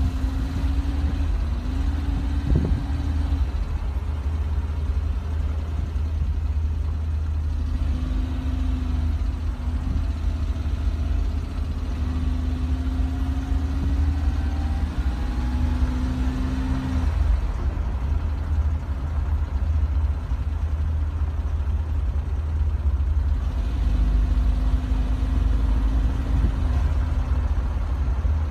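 Motor vehicle engine noise: a steady deep rumble with an engine hum that comes and goes and shifts slightly in pitch.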